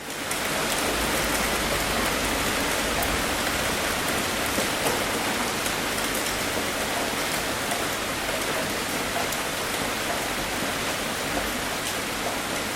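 Heavy rain drumming steadily on a tin roof, a dense even hiss with scattered sharp drop ticks; it fades in at the very start.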